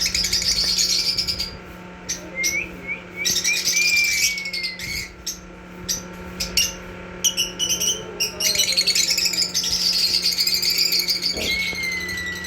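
Black-masked lovebird singing: bouts of fast, high chattering and clicking with short falling whistles, separated by brief pauses, over a steady low hum.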